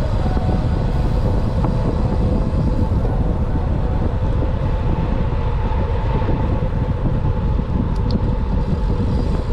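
Steady rumbling wind rush and road noise on the microphone of a camera riding along on a moving road bike.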